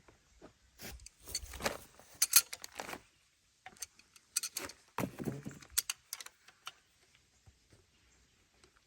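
Metal tools and engine parts clinking and rattling as they are handled, in two irregular clusters of sharp clinks, then a few faint ticks.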